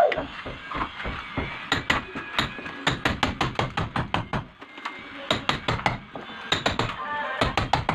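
Hammer blows chipping into a wall, struck in quick runs of several a second with short pauses between the runs.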